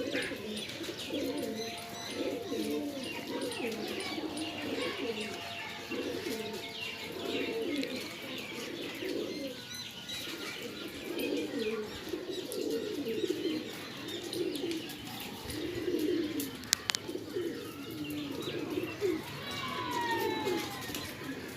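Shirazi pigeons cooing over and over in overlapping phrases, with smaller birds chirping higher up. A single sharp click about three-quarters of the way through.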